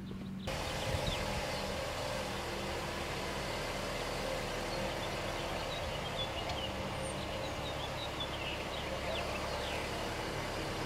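A car engine comes on about half a second in and then runs steadily at idle. Birds chirp faintly in the background.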